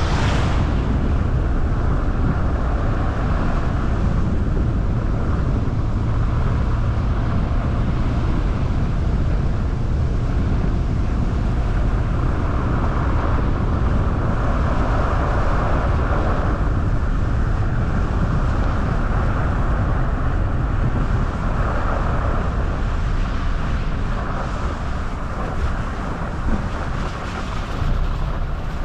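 Car driving on a road: steady tyre and wind noise over a low rumble, swelling and easing now and then and dropping a little near the end.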